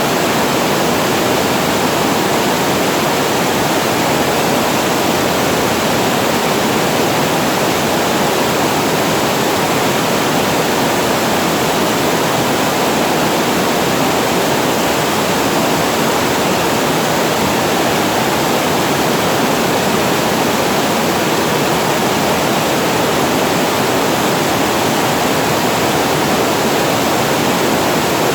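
Water pouring over a reservoir weir, a steady unbroken rush.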